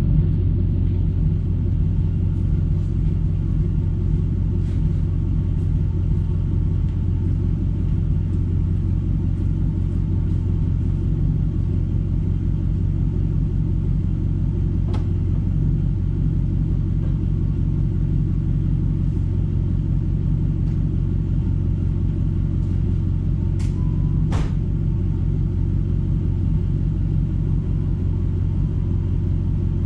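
Jeep Grand Cherokee SRT8's V8 running steadily through a Gibson cat-back exhaust, a continuous low exhaust note with no big revs.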